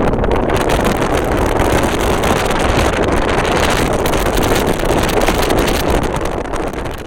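Wind buffeting the microphone over the steady rumble of a moving vehicle, dense and loud throughout, easing off slightly near the end.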